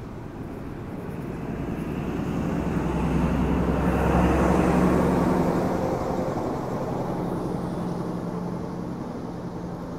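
NSW TrainLink XPT diesel train passing close beneath and moving away. The rumble of its trailing power car's engine and wheels on the rails swells to a peak about four to five seconds in, then fades as the train draws off.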